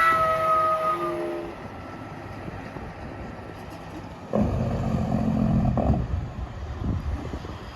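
A multi-note air horn chord trailing off over the first second and a half. About four seconds in comes a loud, low heavy-vehicle rumble that starts and stops abruptly after about a second and a half.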